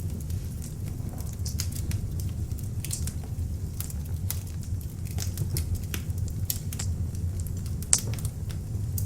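Beech-wood log fire burning in an open fireplace: a steady low rumble of flames under frequent sharp crackles and pops, the loudest pop about eight seconds in.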